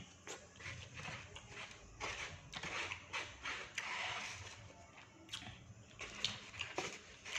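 Close-miked eating sounds of a person chewing batagor (fried fish dumplings): irregular wet mouth clicks and short chewing bursts.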